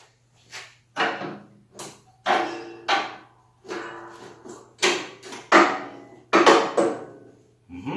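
Repeated knocks and clanks of metal mower parts being worked by hand, about a dozen sharp hits at uneven intervals, over a faint steady low hum.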